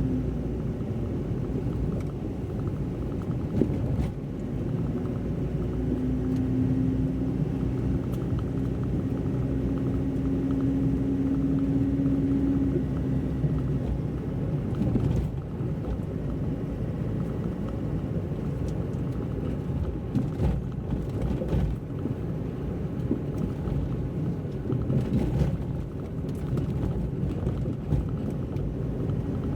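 Car cabin road noise while driving: a steady low rumble of engine and tyres, with a held engine drone for several seconds near the start and a few light knocks.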